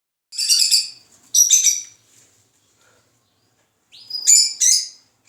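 Small bird chirping in quick, high bursts: two bursts a second apart near the start, then after a pause two more near the end, the later group opening with a rising note.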